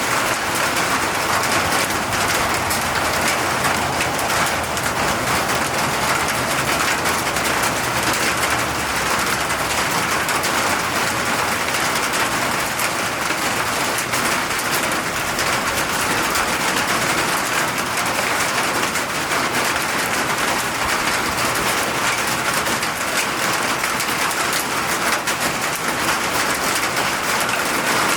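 Steady rain, falling in an even, dense patter without letup.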